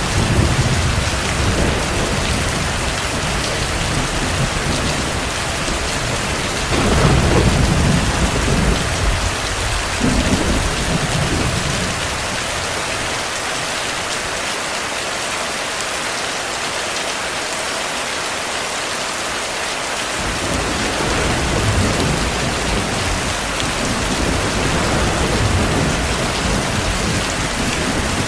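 Continuous heavy rain hissing steadily, with distant thunder rumbling at intervals. The strongest roll comes about seven seconds in, another follows around ten seconds, and softer ones return in the last third.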